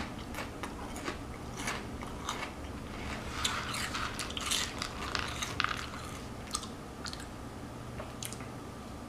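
A person chewing and biting crunchy food close to the microphone, with irregular crunches that come thickest in the middle.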